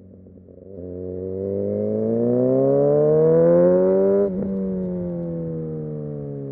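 Kawasaki Ninja ZX6R's inline-four engine accelerating hard, its pitch climbing steadily for about three and a half seconds, then the throttle snaps shut with a click about four seconds in and the engine winds down as the bike slows.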